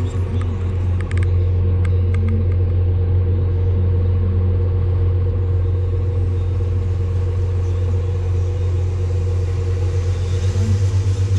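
Farm tractor's diesel engine running steadily while pulling a grain cart, a deep, even drone with a steady higher hum above it.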